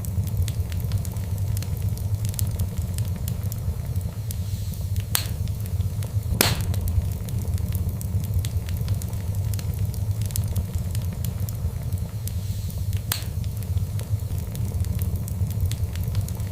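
Fireplace fire crackling steadily over a low rumble, with frequent small ticks and a few louder pops, the sharpest about six seconds in.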